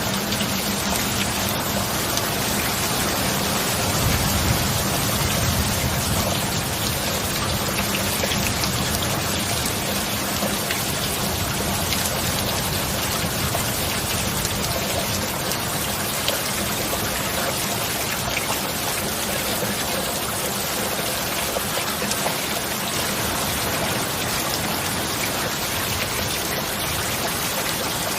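Steady heavy rain falling, with a low rumble swelling briefly about four seconds in.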